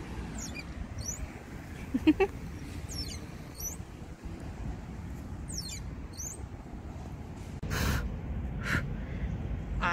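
Birds chirping, a series of short calls that sweep down in pitch, over a steady low background rumble. A few brief noisy bursts come near the end.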